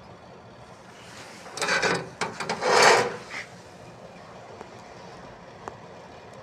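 MIG welding arc crackling in a few short, loud bursts, about two seconds in all, with clicks between them, over a steady background hum.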